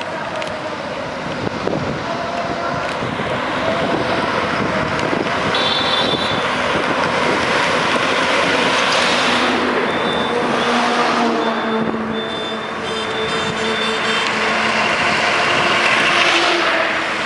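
Sport motorcycles passing at speed along a road, several times. Each pass is a swelling rush of engine and tyre noise over steady traffic noise.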